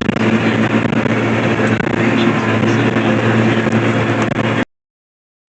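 Tractor engine running steadily with a round baler working behind it; the sound cuts off abruptly about four and a half seconds in.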